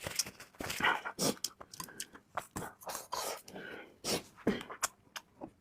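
Close-up eating sounds of a person chewing and smacking on pieces of chicken: irregular wet clicks and short smacks in uneven bursts.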